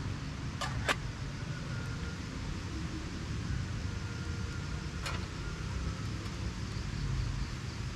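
Steady low rumble of a vehicle running, with two sharp clicks about a second in and another about five seconds in.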